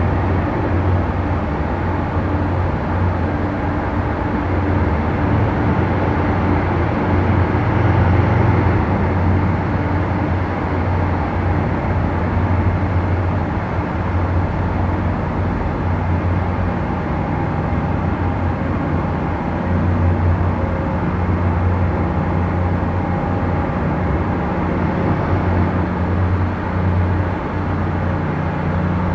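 Boat engines running with a steady low drone, a few held tones in it shifting slightly in pitch over time.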